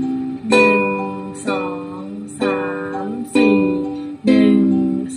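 Ukulele strummed in a steady rhythm, about one stroke a second, each chord ringing and fading before the next. It plays the intro's G and C chords, alternating the top string with the lower three strings.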